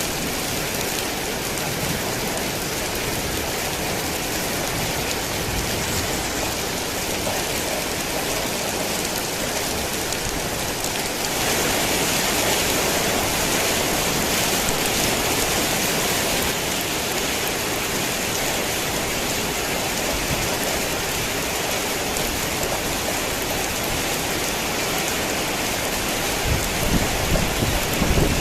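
Heavy rain falling steadily, heavier for about five seconds a little before the middle. Near the end, a low rumble of thunder begins to build.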